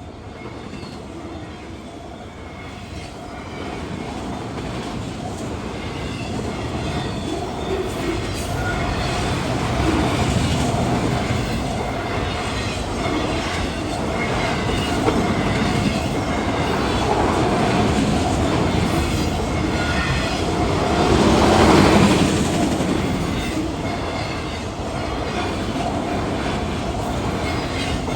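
CSX autorack freight train rolling past, its wheels rumbling and clattering over the rails. It grows louder over the first few seconds and is loudest about three quarters of the way through.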